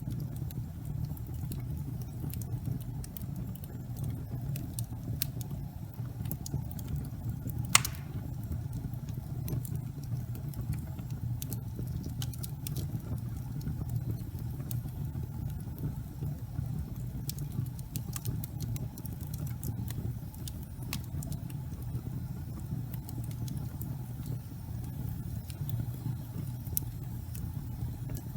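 Fireplace fire burning: a steady low sound of flame with frequent small crackles and one sharp pop about eight seconds in.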